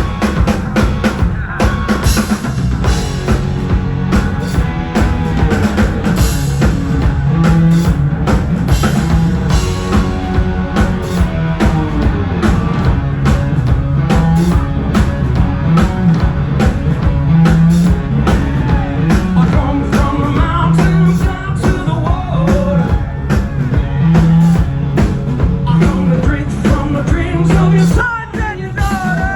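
Rock band playing loud, with a pounding drum kit, a pulsing bass line and singing. The music thins out a little near the end.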